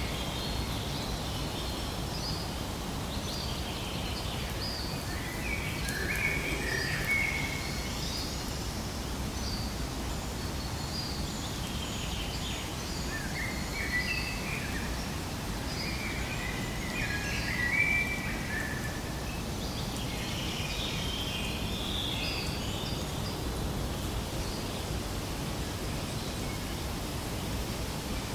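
Birds chirping and calling in scattered bursts over a steady low rumble of outdoor background noise.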